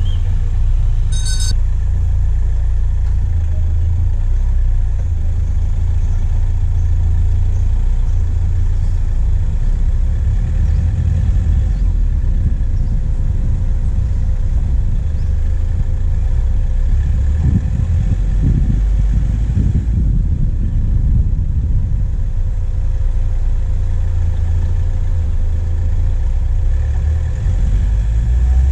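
Diesel engine of a vehicle driving on a forest track, heard from the bonnet: a steady low running drone throughout, with a brief high chirp about a second in.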